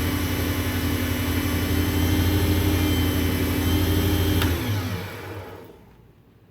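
WEN lathe's one-third-horsepower motor running steadily with an electric hum. About four and a half seconds in it is switched off with a click and spins down to a stop, its pitch falling.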